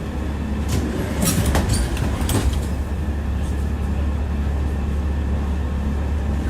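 Tram rolling on its rails, heard from inside the car: a steady low rumble, with a few sharp clacks of the wheels about one to two seconds in.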